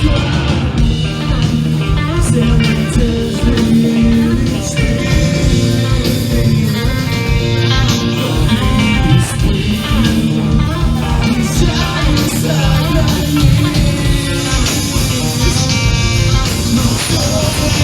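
Live rock band playing loud in a small venue: electric guitars, bass and drums, with singing.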